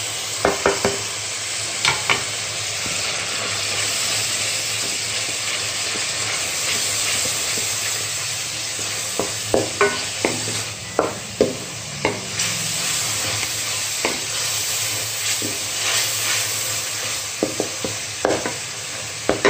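Onion-tomato masala with freshly added ground spices sizzling in oil in a pan as a steady hiss, stirred with a spoon that knocks and scrapes against the pan now and then, in clusters about half a second in, in the middle and near the end.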